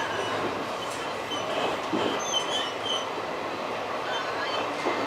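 Passenger train running, heard from inside the carriage: a steady rumble of wheels on rail with a few short, faint high-pitched squeaks.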